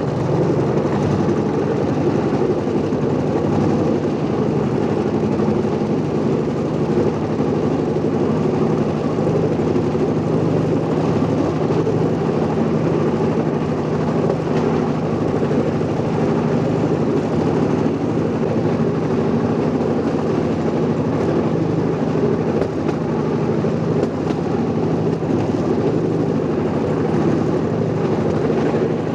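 Small vehicle engine running steadily, with a constant low drone under a rushing noise, as heard while riding an open vehicle.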